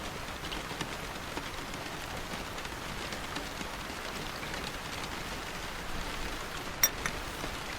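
Steady rainfall, an even hiss with scattered faint drop ticks. Two sharp clicks come close together near the end.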